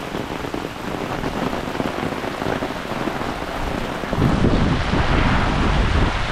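Heavy hurricane rain falling steadily on a flooded lawn. About four seconds in it grows louder, with a low rumble of wind buffeting the microphone.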